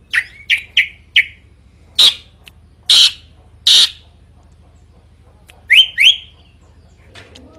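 Drongo calling loudly: four quick rising whistled notes, then three harsh, rasping calls about a second apart, then two more rising whistles and a few fainter notes near the end.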